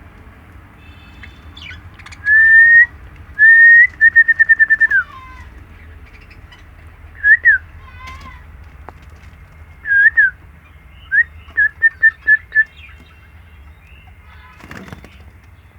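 Loud, clear whistling in short phrases: two rising notes, then a quick run of short notes that drops at the end, and after pauses a few more notes and another quick run. Faint chirps sound between the phrases.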